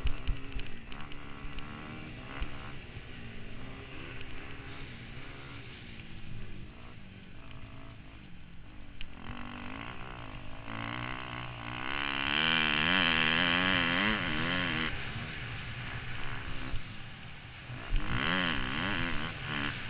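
Motocross bike engine heard from a helmet camera, revving up and down in pitch as it rides. It is loudest in a long stretch about twelve seconds in and again near the end.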